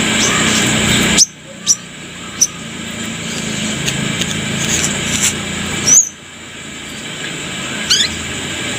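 Brown-throated sunbird (korlap) giving sharp, high, squeaky chirps, a handful of separate calls, over a steady background hiss that cuts out abruptly twice.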